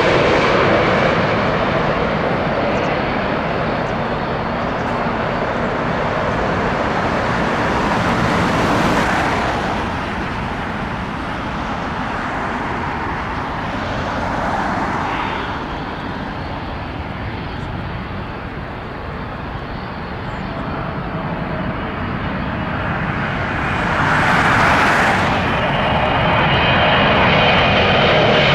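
Jet airliner engines running, a continuous rumble that swells and fades as aircraft move, loudest near the start and again about 24 seconds in. A high whine from the engine fans comes in near the end.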